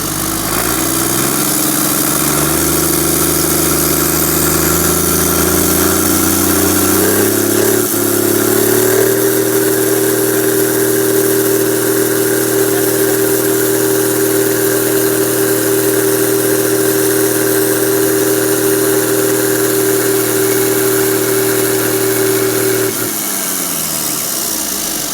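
Yuchai marine diesel engine being revved up in steps over about nine seconds, held at a steady higher speed, then throttled back down to idle near the end.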